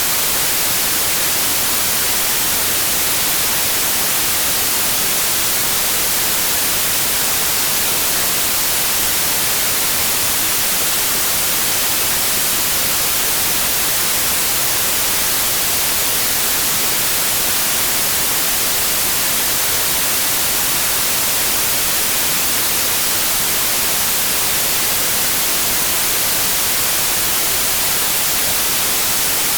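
Steady, unchanging white noise: a bright, even hiss with no tones, rhythm or breaks, played as a sleep aid for babies.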